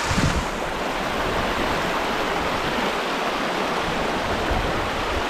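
Water rushing steadily over a small creek spillway, a dense, even hiss-and-roar.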